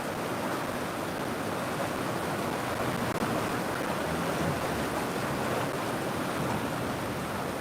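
Steady rushing of river water flowing over rocks, an even wash of noise without pauses.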